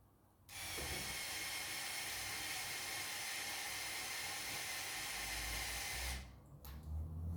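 A steady hiss that starts abruptly about half a second in and cuts off sharply about six seconds in.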